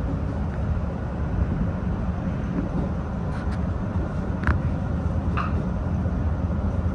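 Hanshin electric train running between stations, heard from on board: a steady rumble of wheels on rails, with two brief squeaks about four and a half and five and a half seconds in.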